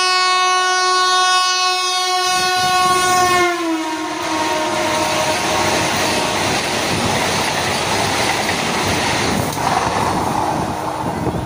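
Vande Bharat Express trainset running through at about 100 km/h. Its horn sounds loud and steady, then drops in pitch about three and a half seconds in as it passes, followed by the rushing noise of the train running by.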